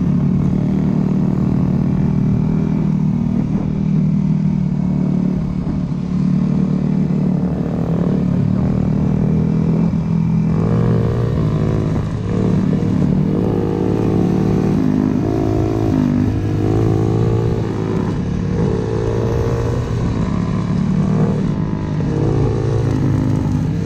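Dirt bike engines running, steady at first, then from about halfway revving up and down repeatedly.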